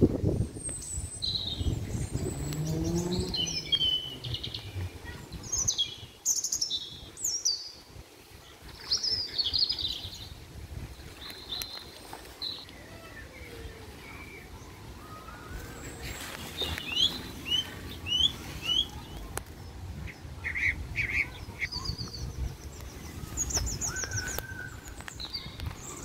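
Birds chirping: short, varied high chirps and brief trills at irregular intervals, with a few quick rising calls past the middle. A low rumble sits under the first few seconds.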